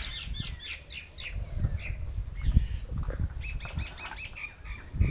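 A young bird's wings flapping, with soft bumps, and quick runs of short high begging chirps near the start and again later on.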